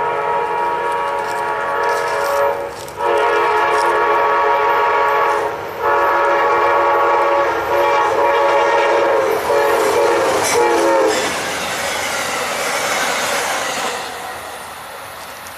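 A diesel locomotive's multi-chime air horn blows long blasts separated by short breaks, and its pitch drops as the locomotive passes. The horn cuts off about eleven seconds in, and the train's wheels carry on rolling by as a steady rumbling clatter.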